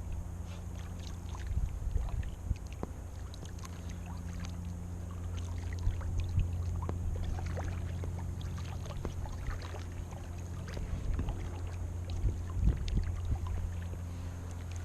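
Cheap vinyl inflatable boat being moved across a pond, with many small irregular knocks and water sounds over a steady low hum.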